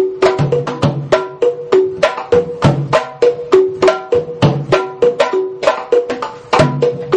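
Batá drums, two-headed hourglass drums, playing a steady repeating rhythm of quick, sharp strokes. Higher pitched tones alternate with each other, and deeper open tones come in at regular points in the pattern.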